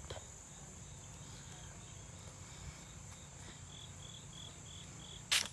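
Insects trilling in a steady, high-pitched drone, joined in the second half by a quick run of short, evenly spaced chirps. A brief sharp noise sounds near the end.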